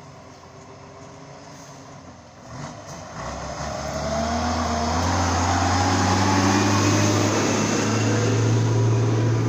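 Old truck's engine under load: it comes in about two and a half seconds in and grows loud, its pitch climbing, then runs steady and loud.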